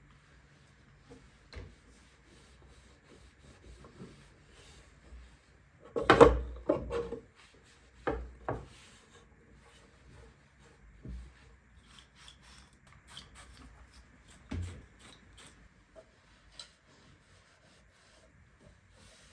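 Household handling noises: objects being set down and rubbed against one another, with scattered light clicks and knocks. A loud cluster of knocks comes about six seconds in, followed by two more shortly after and a single knock near the middle.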